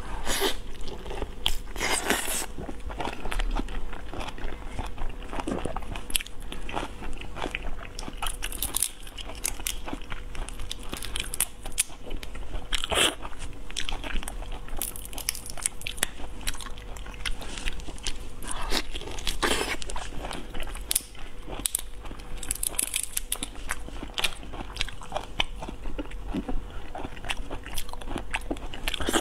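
Close-miked biting, crunching and chewing of marinated shrimp, with irregular wet clicks and crackles as the shrimp are eaten.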